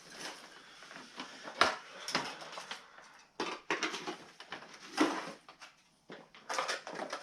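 Irregular clicks, knocks and rattles of parts and tools being handled while the motorcycle's dash-area pieces are taken off, with sharper knocks about one and a half seconds in and again about five seconds in.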